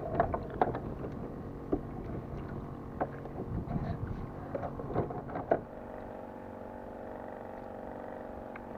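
Irregular knocks and clicks on a fishing kayak's hull. About halfway through they stop, and a steady, even hum runs on.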